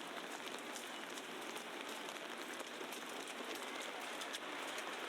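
Steady patter of wet falling snow on street surfaces: an even hiss sprinkled with many small ticks.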